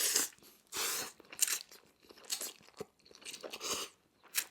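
Close-miked eating: a run of about six short, wet mouth noises in four seconds as a mouthful of jajangmyeon black bean noodles is taken in and chewed.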